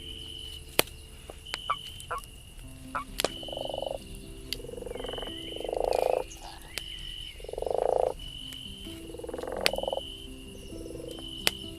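Campfire crackling with scattered sharp pops, over night forest animal calls: four long buzzing calls, each about a second, and a high note that repeats on and off.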